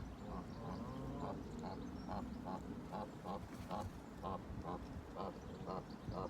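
Ducks quacking in a steady, even series, about two calls a second.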